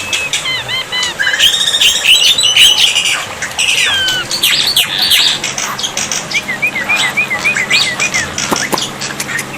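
Black-winged myna (jalak putih) song: a dense, varied stream of whistles that glide up and down, harsh squawks and chirps. About two-thirds of the way in comes a run of about eight quick, rising whistled notes.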